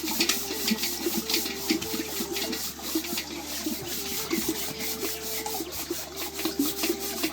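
Rapid, irregular scraping and rubbing.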